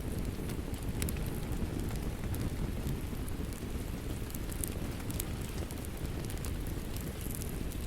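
Steady rain with a low rumble, and a wood fire crackling over it in scattered sharp pops.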